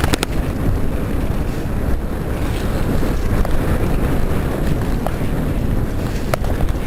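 Wind buffeting the microphone of a bicycle-mounted camera during a ride over sand, a steady loud rumble with a few sharp clicks from the rattling bike.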